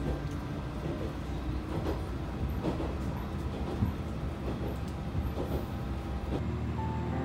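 Inside a moving diesel railcar: the steady low rumble of the engine and wheels on the track, with a few knocks from the wheels over the rails.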